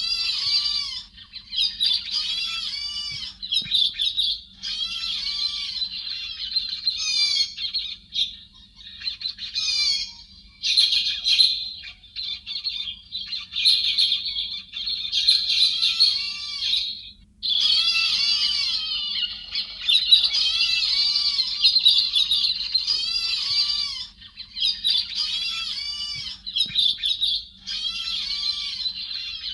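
A flock of héc xoan thrushes calling, from a cleaned-up bird-lure recording: dense, overlapping, high chattering squawks in bursts a few seconds long, broken by short gaps. A faint low hum runs under it.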